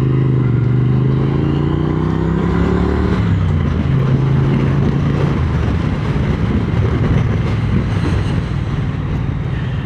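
Triumph Speed Twin 900's parallel-twin engine under way, its note rising steadily for about three seconds, then dropping off. After that the engine is largely buried under the rush of wind on the microphone.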